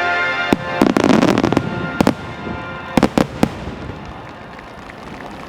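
Aerial firework shells bursting. A sharp bang comes about half a second in, then a dense run of cracks over the next second, another bang at about two seconds, and three bangs close together near three seconds. Music accompanying the display fades out during the first two seconds.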